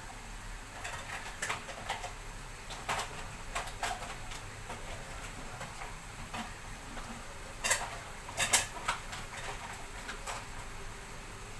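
A cooking utensil knocking and scraping against a pot as the chicken soup ingredients are stirred, in irregular clinks, loudest about eight seconds in.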